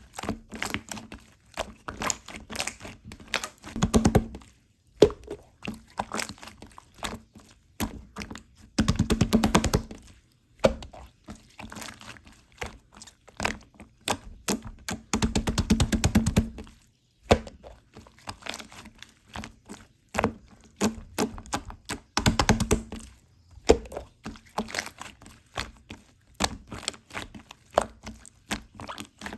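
Slime being pressed, stretched and poked by hand, giving many sharp clicks and pops of air bubbles. There are denser runs of rapid crackling about nine and fifteen seconds in.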